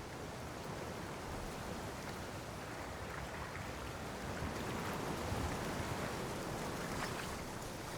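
Steady rushing noise that swells a little in the middle, of the wind-and-road kind.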